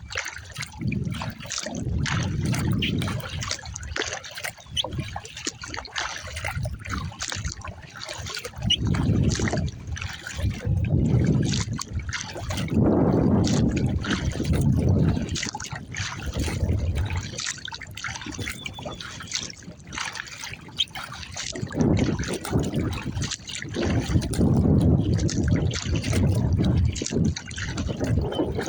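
Water splashing and trickling around a kayak being paddled, with drips and small splashes throughout and a low rumble that swells and fades every few seconds.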